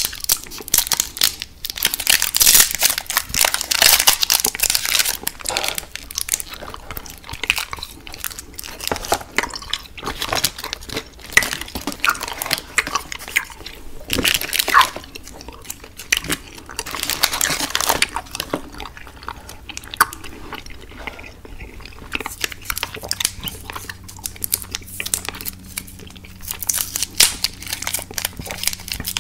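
A person chewing and crunching candy, with irregular crackly bites and some crinkling.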